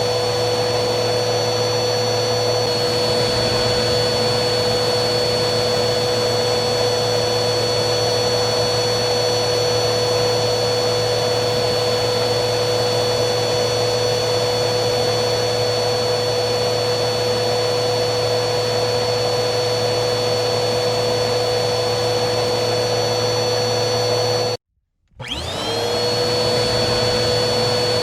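Vacuum cleaner motor running steadily, with an even rushing noise and a high whine. About 24 seconds in it cuts out completely for half a second, then spins back up, its whine rising to speed.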